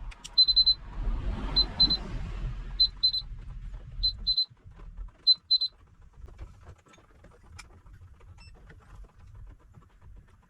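Power inverter's beeper sounding short high electronic beeps in pairs, about one pair a second, as the inverter under test is switched on. The beeping stops after about five and a half seconds. A low hum underneath cuts off about four seconds in.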